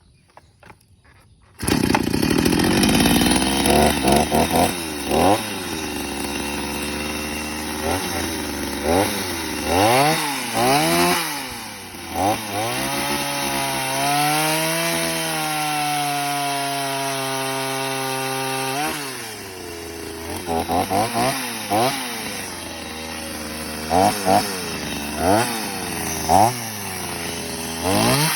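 Two-stroke chainsaw engine that comes in suddenly about two seconds in and idles, revved up sharply again and again. It is held at high revs for several seconds in the middle, then drops back and is blipped several more times near the end.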